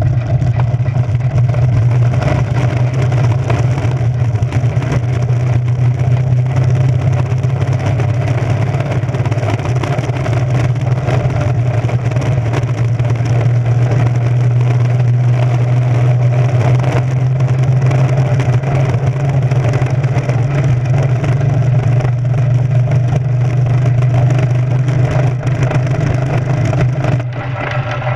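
Steady loud drone and rushing air picked up by a camera mounted on a moving human-powered aircraft during a test run, with a strong low hum throughout; it eases off near the end.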